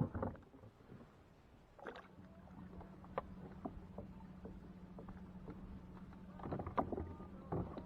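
Sounds of a fishing kayak on the water: scattered small knocks and clicks of gear against the hull, and a busier stretch of knocking near the end. A steady low hum starts about two seconds in and holds.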